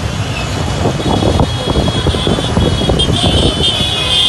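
Loud, steady road traffic noise of motor engines running, with a continuous rumble and a thin steady whine high up.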